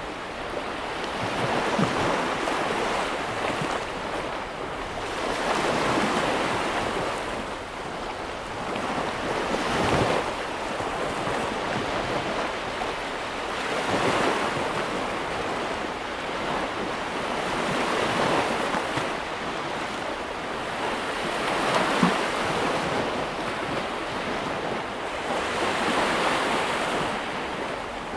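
Ocean surf: sea waves breaking and washing in, the rush swelling and easing about every four seconds.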